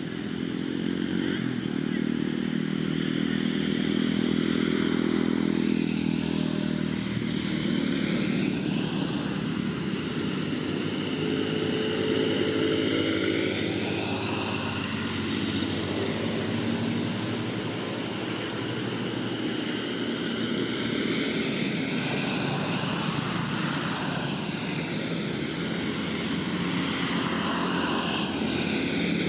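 A motor engine running continuously, its pitch shifting slowly now and then.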